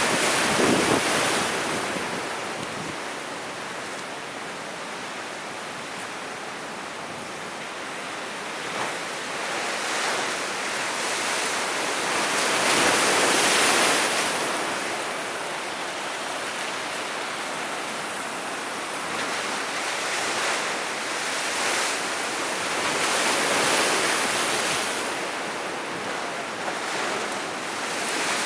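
Sea waves breaking and washing on the shore, the surf swelling and ebbing every few seconds, loudest about halfway through, with some wind on the microphone.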